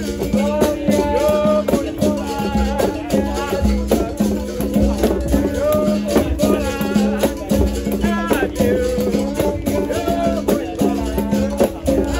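Live capoeira roda music: berimbaus with caxixi shaker rattles and hand percussion keep a steady rhythm while voices sing.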